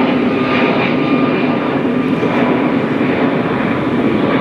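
Low-flying airliner passing overhead, a great big loud plane: a steady loud jet roar with no rise or fall.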